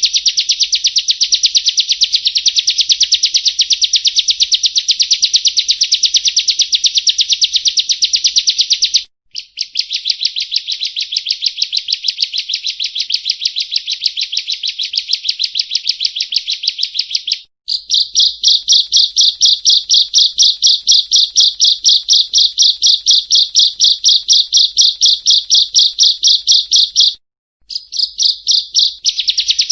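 Prinia (perenjak) song: a fast, buzzy trill of rapidly repeated high notes in long unbroken bouts. It breaks off briefly three times, and one bout has narrower, more evenly spaced notes.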